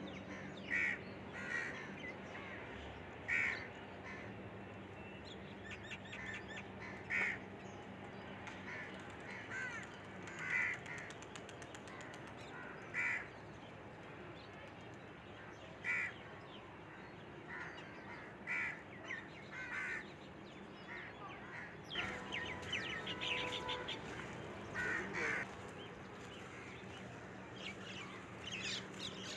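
Outdoor bird calls: one bird gives short calls, repeated every two to three seconds. From about three-quarters of the way through, more birds join with quicker chirping.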